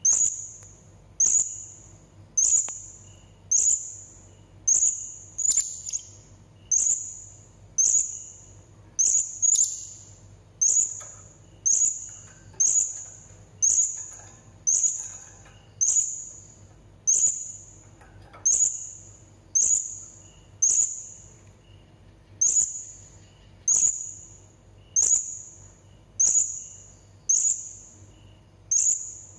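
Blue-crowned hanging parrot (serindit) giving short, sharp, high-pitched calls, each starting suddenly and fading fast, repeated steadily about once every three-quarters of a second.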